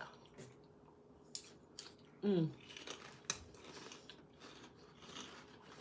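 Close-miked chewing and mouth sounds from eating a sandwich wrap: a few scattered sharp clicks and smacks, with a short falling hum about two seconds in.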